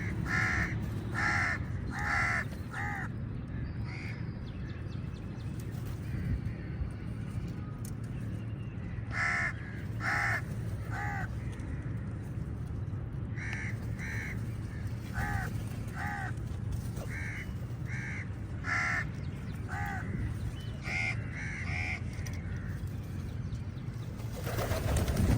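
Crows cawing again and again, in runs of three or four short calls, over a steady low rumble. A louder rush of noise comes at the very end.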